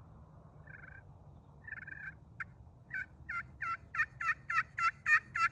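Turkey pot call with a ceramic-over-glass surface in a bocote-wood pot, worked with a wooden striker. Two soft, tentative notes, then a steady run of yelps, about three a second, that grows louder.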